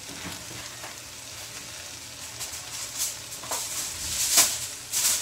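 Plant-based beef crumbles and vegetables sizzling steadily in a stainless steel skillet, covered by a layer of tortillas. From about halfway through, sharp crackles come in, the loudest about four seconds in.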